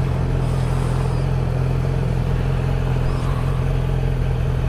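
Honda Grom's small single-cylinder four-stroke engine running at a steady cruising speed through its stock exhaust, with wind rush over it.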